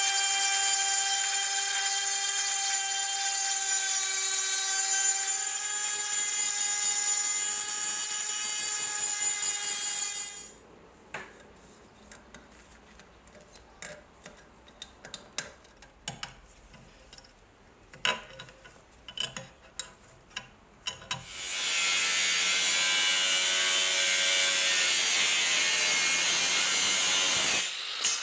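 Small electric power tool running with a steady high whine, cutting out about ten seconds in. A quiet stretch of scattered clicks and scrapes follows, then from about two-thirds through a harsher rasping of the tool working the rusty steel bayonet, briefly dropping out near the end.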